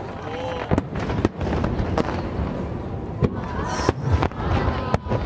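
Aerial fireworks shells bursting one after another, about a dozen sharp bangs at uneven intervals, with short whistling glides from rising shells between them.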